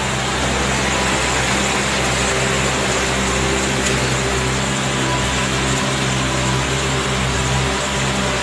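Heavy rain pouring down steadily over the steady hum of a bus's diesel engine idling close by.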